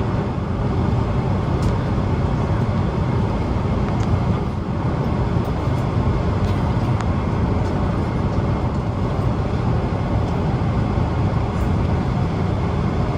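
Steady, loud rumble of a Boeing 777-300ER heard from inside the cabin: jet engine and airflow noise with no change in pitch.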